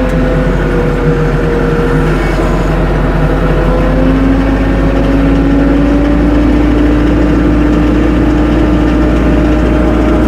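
Tractor engine running steadily while the tractor works in snow, its pitch dipping slightly and then rising gradually from about four seconds in.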